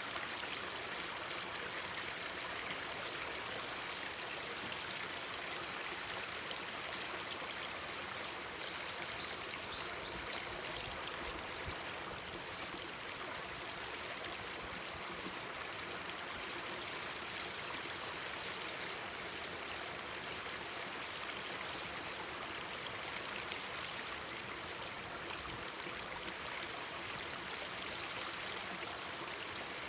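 Mountain stream babbling and rushing over rocks, steady throughout, with faint crackling from a campfire. A short run of high chirps comes about nine seconds in.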